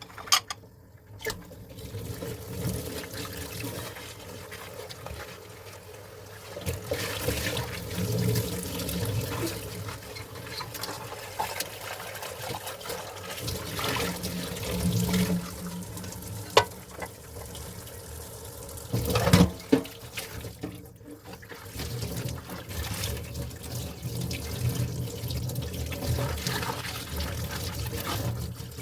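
Tap water running and splashing in a kitchen sink during dishwashing, with a few sharp clinks of dishes, one about halfway through and a couple more shortly after.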